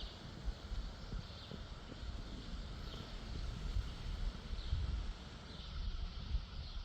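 Wind gusting and buffeting the microphone, with a bird chirping faintly every second or so.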